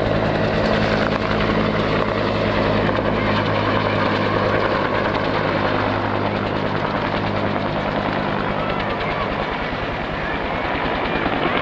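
Firefighting helicopter running steadily close by, a steady low rotor hum over dense engine and wash noise. The low hum weakens about nine seconds in.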